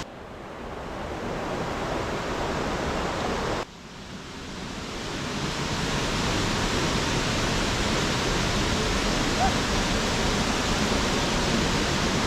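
Steady rushing of a waterfall. The sound cuts off abruptly at the start and again about a third of the way in, each time swelling back up over a second or two.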